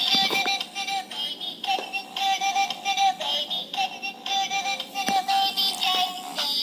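Generic Chinese Nemo toy fan playing its built-in electronic tune: a thin, bass-less synthesized melody with a sung-sounding electronic voice, and a few faint clicks.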